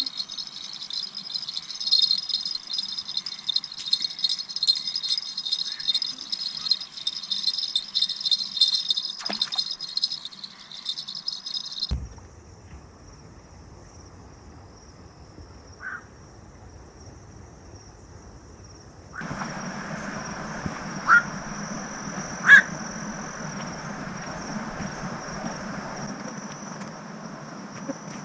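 Night insects calling in a dense, fast, high-pitched rattling chorus that cuts off suddenly about twelve seconds in. A fainter, thin steady high insect note follows, joined after about nineteen seconds by a steady rushing noise with a few sharp clicks.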